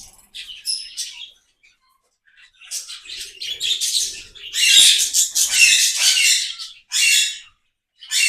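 Parrots calling in an aviary: a run of short, high calls, a few scattered at first, then crowding together and loudest from about four seconds in.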